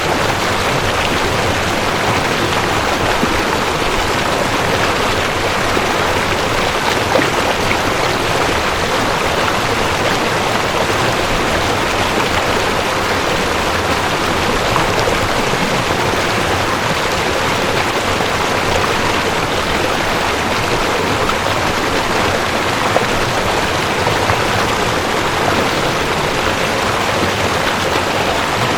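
Mountain stream rushing over rocks: a steady, even rush of running water with small splashes.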